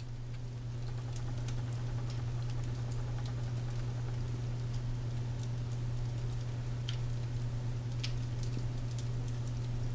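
Wood logs burning in a fireplace, crackling with scattered sharp pops, a louder pop about eight seconds in, over a steady low hum.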